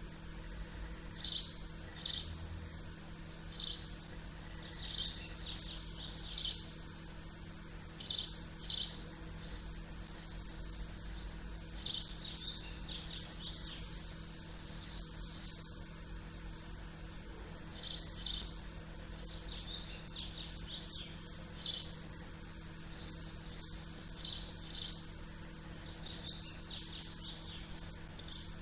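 Small birds chirping, short high chirps repeated in irregular clusters every second or so over faint steady background noise.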